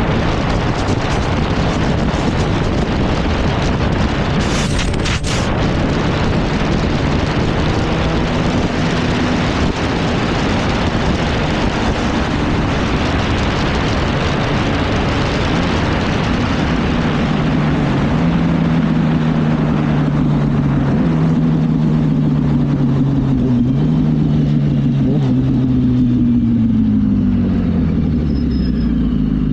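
Yamaha R1 sport bike riding at speed, with heavy wind rush on the helmet microphone. The engine note grows clearer about a third of the way in, jumps in pitch a few times, and falls away near the end as the bike slows.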